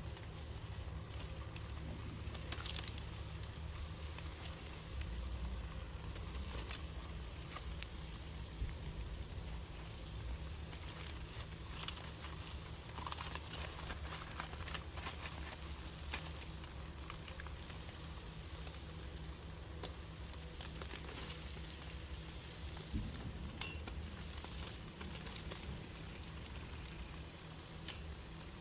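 Campfire crackling steadily with scattered small pops, with food cooking on the grate over it.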